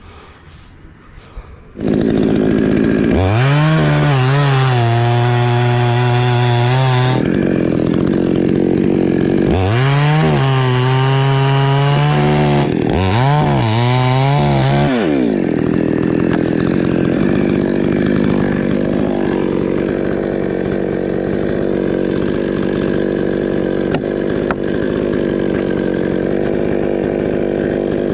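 Two-stroke chainsaw that comes in suddenly about two seconds in and is revved up three times, its pitch rising and falling, then runs steadily with a rougher, lower sound for the rest.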